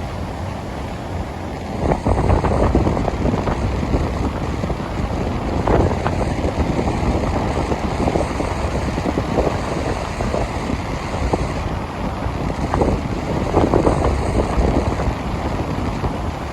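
Strong wind buffeting the microphone in gusts that rise about two seconds in and again near the end, over the wash of ocean surf.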